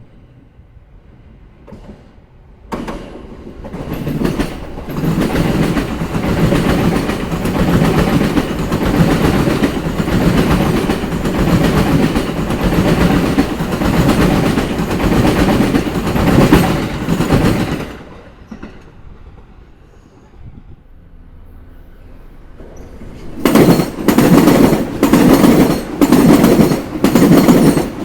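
Sōbu Line electric trains passing over rail joints, the wheels clattering at each joint. One train runs through for about fifteen seconds; a few seconds after it fades, a second train comes in with loud, evenly spaced joint knocks.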